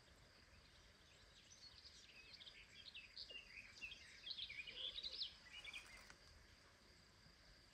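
Small birds singing faintly, a busy run of quick high chirps and twitters through the middle few seconds, over a faint steady high-pitched insect hum and quiet outdoor background.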